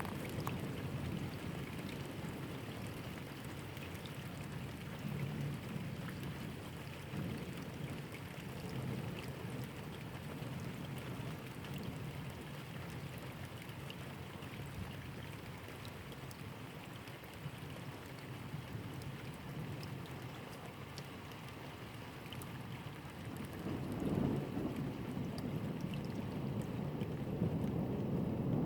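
Steady rain with scattered drops, and a low rumble of thunder that swells up near the end.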